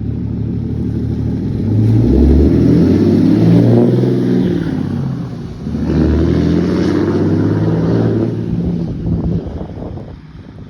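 Truck engine revved twice, pitch rising and holding for a few seconds each time before falling back, then settling down near the end.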